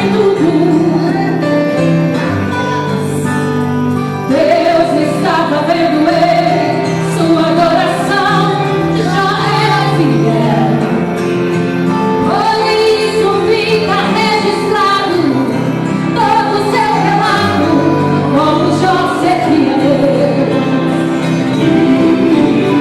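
Gospel hymn sung by a women's vocal group with a female lead singer, over sustained instrumental accompaniment.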